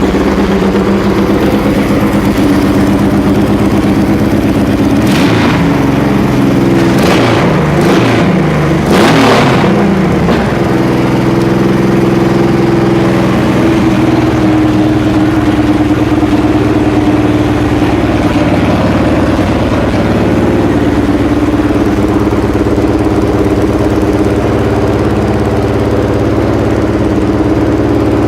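Honda VTX 1800's V-twin engine running at idle, blipped up in revs a few times about five to ten seconds in, then settling back to a steady idle.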